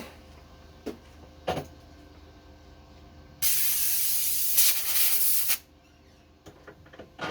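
A couple of light knocks, then a loud spray hiss lasting about two seconds that cuts off sharply, like an aerosol can being sprayed.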